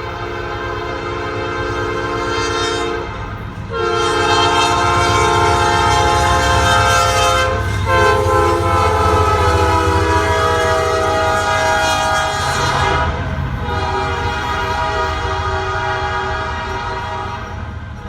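A diesel locomotive's air horn sounding a chord in three long blasts with short breaks between them, over the low rumble of the locomotive and train. After the third blast ends, about two-thirds of the way in, the horn and train sound fade away.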